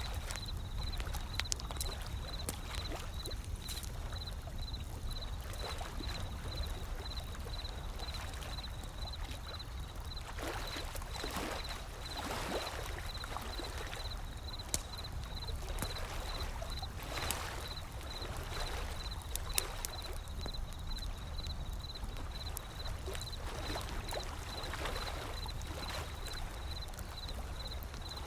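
A wood fire crackling with frequent sharp pops, over the steady low wash of ocean waves that swell up now and then.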